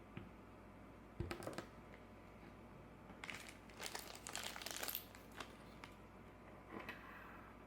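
Crinkling and rustling, as of something being handled, for about two seconds in the middle, with a knock a little over a second in and a few light clicks.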